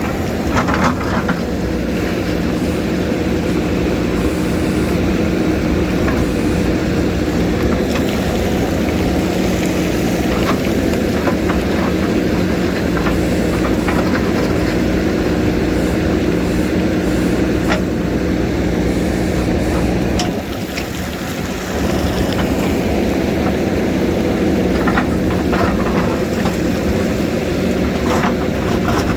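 JCB backhoe's diesel engine running steadily under load, with scattered sharp knocks and scrapes of the bucket on rock. The engine drops off briefly about two-thirds of the way through, then picks up again.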